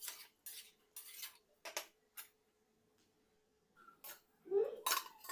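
Metal spoon scraping and stirring chicken masala in a cooking pot: a series of short scrapes, a pause of about a second in the middle, then a few more scrapes near the end.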